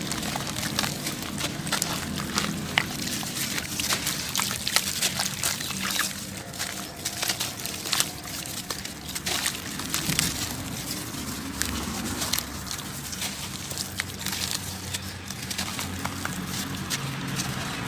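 Clumps of crumbly material such as dried sand, cement or dirt being crushed and breaking apart: a dense, irregular run of small crackles and crunches.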